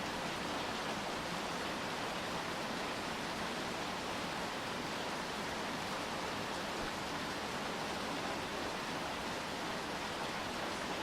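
Steady rain falling, heard as an even hiss with no single drops or other events standing out.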